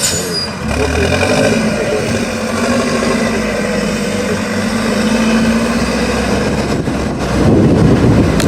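Truck engine running on an off-road trial course, holding a steady note, then growing louder near the end as it takes more throttle.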